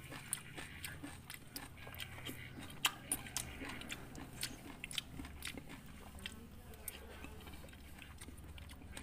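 A person chewing and biting mouthfuls of rujak, chunks of raw fresh fruit in chili sauce, with quiet crunches and wet mouth clicks scattered throughout.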